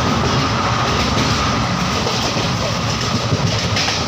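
Passenger train running along the track, heard from the open doorway of a coach: a steady, loud rumble of wheels on rails.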